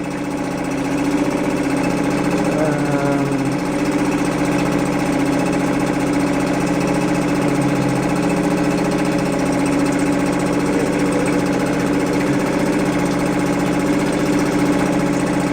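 Suzuki 2.5 hp single-cylinder four-stroke outboard motor running steadily at low speed.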